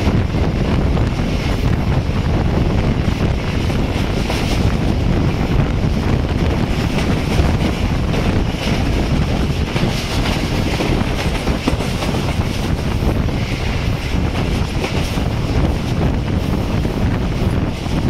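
Express passenger train running at speed, heard from an open coach window: a steady rumble of wheels on the rails mixed with wind buffeting the microphone.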